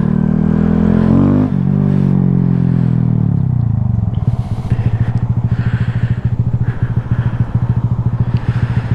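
Honda Grom's 125 cc single-cylinder engine accelerating, with a gear shift about a second and a half in and a second pull after it, then easing off over the next couple of seconds and running at a steady low pitch with an even pulsing exhaust note.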